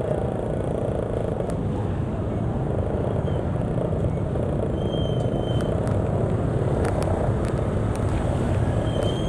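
Steady rumble of road traffic, with faint short high chirps about five seconds in and again near the end.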